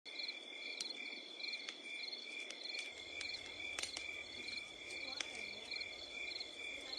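Insects chirping: a steady high trill with evenly pulsed chirps about one and a half times a second, and a few faint clicks.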